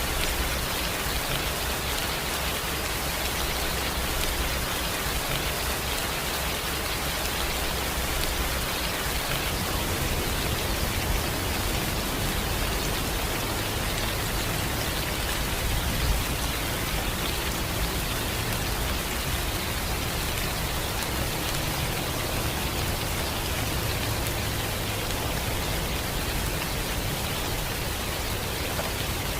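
Steady rain falling on a surface, a dense even hiss of many drops without a break.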